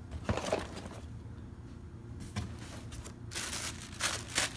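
Cardboard box and packaging being opened and handled: several short rustling, scraping bursts, the longest cluster near the end.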